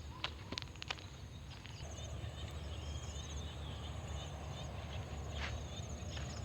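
Evening chorus by a rice paddy: a rapid pulsing high-pitched trill and chirping calls of small frogs, insects and birds, over a low rumble, with a few sharp clicks near the start and once more later.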